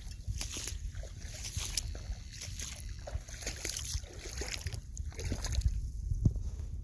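Floodwater standing over a pasture, sloshing and splashing in irregular strokes as it is stirred, over a steady low rumble.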